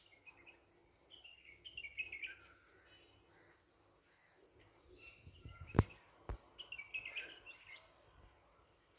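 A bird singing in the background: two short runs of chirps that fall in pitch. About six seconds in come a sharp knock and a duller thump just after, louder than the birdsong.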